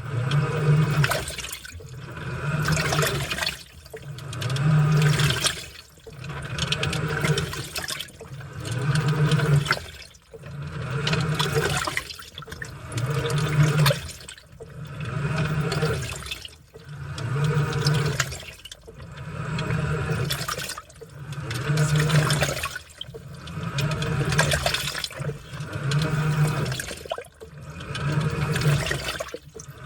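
Washing machine in its wash cycle: the motor turns the load back and forth, and the water and laundry slosh and splash in an even swell about every two seconds, each swell carrying a low motor hum.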